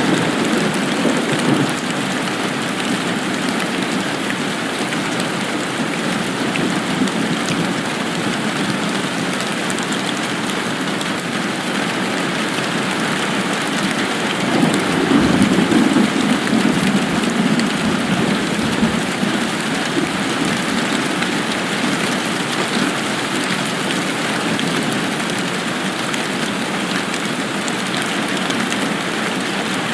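Steady, even rain falling, with a low rumble that swells for a few seconds about halfway through.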